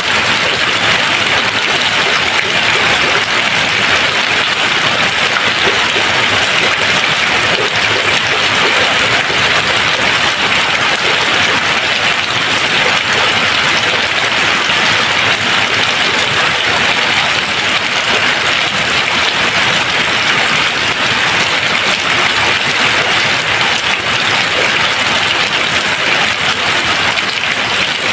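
Steady rain falling, an even hiss without thunder or any single drops standing out.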